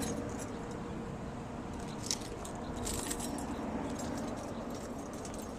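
Small hard items clinking and rattling as they are handled, with a cluster of clinks about two and three seconds in, over a steady low rumble.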